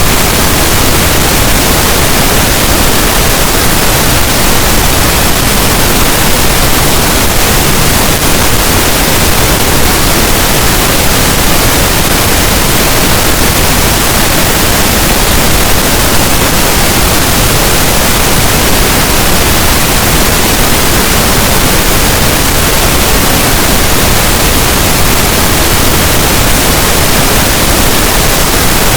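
Steady pink noise: an even, unbroken hiss that does not change in level or character.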